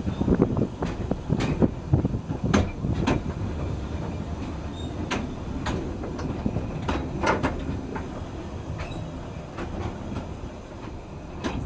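Narrow-gauge railway carriage wheels running along jointed track, a steady low rumble with irregular clicks and knocks as the wheels cross rail joints and points, several in quick succession about seven seconds in.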